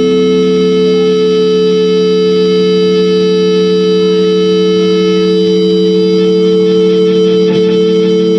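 Loud sustained drone of held tones, a guitar-like chord through effects, steady and unchanging, with a fast flutter creeping into the upper tones near the end.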